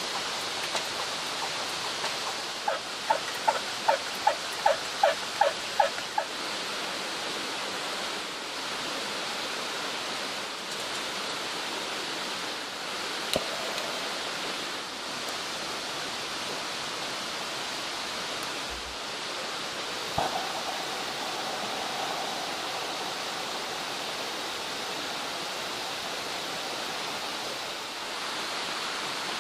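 Mountain stream flowing steadily. About three seconds in, a quick run of about a dozen pitched calls from an animal sounds over it, and a single sharp click comes near the middle.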